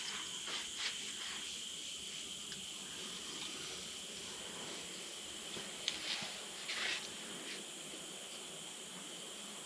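Steady high-pitched chirring of rainforest insects, with a few short hisses about six and seven seconds in.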